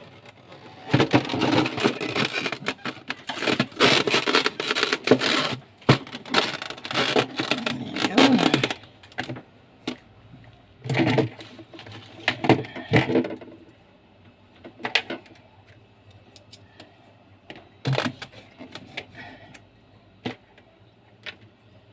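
Clattering and knocking as refrigerator parts and screws are handled during reassembly: dense rattling for the first several seconds, then scattered single clicks and knocks.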